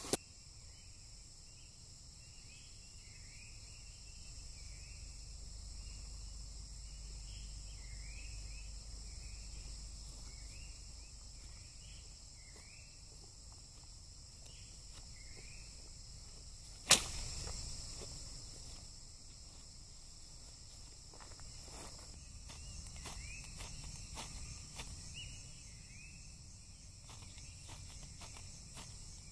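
Crickets and other insects trilling steadily, with short faint chirps repeating in between. A single loud sharp crack comes a little past halfway, and faint scattered clicks follow later.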